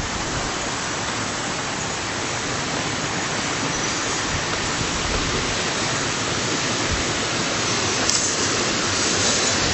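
Water rushing steadily down a stream, a constant even hiss, a little brighter near the end.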